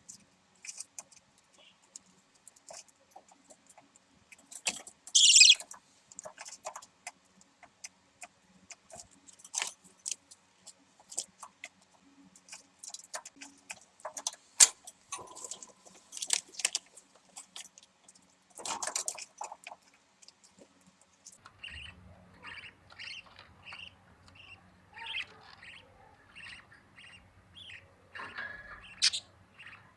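Budgerigar chick sounds: scattered scratching, shuffling and short chirps, then from about two-thirds of the way through a steady run of short, evenly spaced cheeps, about two a second, over a faint low hum.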